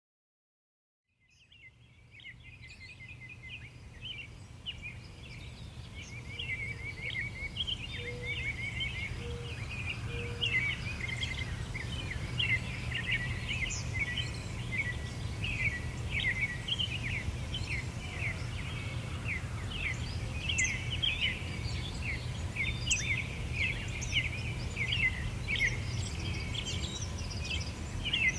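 Many small birds chirping and twittering in a dense, overlapping chorus over a steady low rumble of background noise. The sound fades in from silence over the first few seconds.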